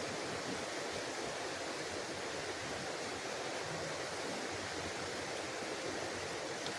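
Creek water running steadily, a constant rush with no other distinct sounds.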